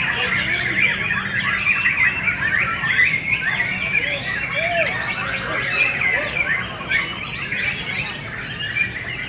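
Many caged songbirds singing and chattering at once, a dense, continuous tangle of overlapping chirps, trills and squawks.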